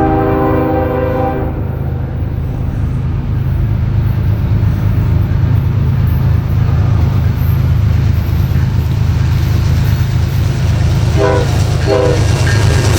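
Norfolk Southern diesel freight locomotives passing with a heavy, steady rumble that grows louder. The air horn sounds one long blast at the start and two short blasts near the end.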